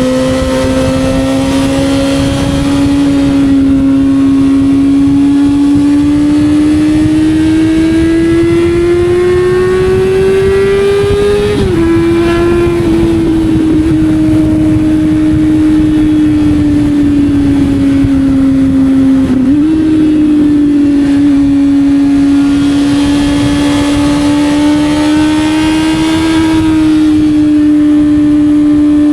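Motorcycle engine running under way, its note slowly climbing, then dropping sharply at a gear change about twelve seconds in. It eases down again and shifts once more about nineteen seconds in, then holds fairly steady over a low rushing noise.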